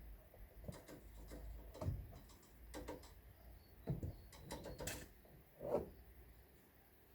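Irregular knocks and clicks, roughly one a second and some with a dull low thump, over a faint low rumble.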